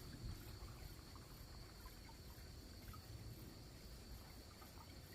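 Faint crickets chirping in a steady high trill, with a higher pulsing note repeating about twice a second.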